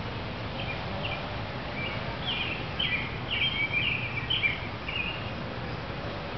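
A small bird singing a quick string of high chirps for about four seconds over a steady outdoor hiss.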